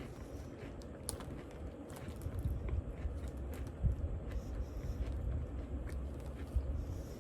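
A person chewing an Oreo cookie close to the microphone, with scattered crisp crunches over a low, uneven rumble.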